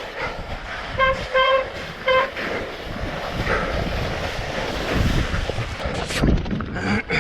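A horn blows three short toots in the first two seconds, over the steady rough noise of a mountain bike riding down a trail, with a few heavier thumps later on.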